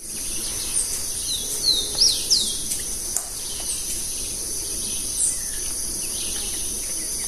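Birds chirping: a few short, downward-sweeping calls close together in the first couple of seconds and another about five seconds in, over a steady high-pitched insect drone.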